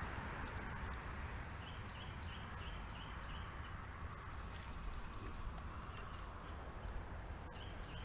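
Outdoor ambience with a steady low rumble, and a bird calling a quick run of about seven short high notes about a second and a half in, with a few more near the end.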